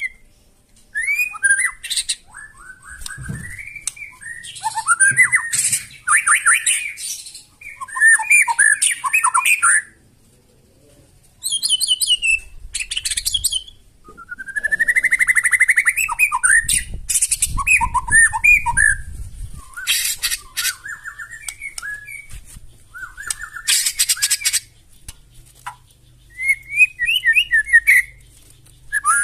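White-rumped shama (murai batu) singing in loud, separate phrases with short pauses between them. The phrases mix clear gliding whistles with rapid, harsh, rattling notes, the rough 'shooting' style of song.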